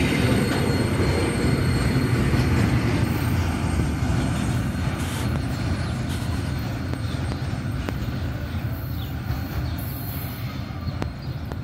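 Freight train of covered wagons and boxcars rolling away along the track, its wheels and wagons rumbling and slowly fading as it recedes.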